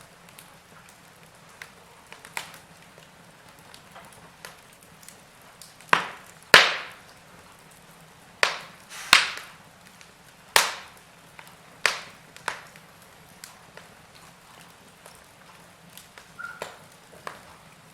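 Log fire crackling in a fireplace: irregular sharp pops and snaps from the burning wood over a soft steady hiss, the loudest pair about six seconds in and a run of pops soon after.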